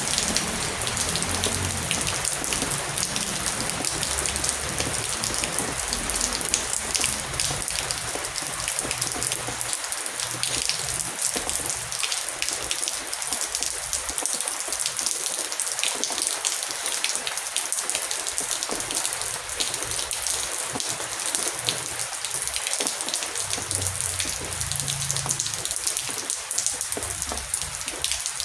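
Heavy rain falling steadily, a dense hiss of many fine drop impacts. A soft low rumble sits under it in the first few seconds and again near the end.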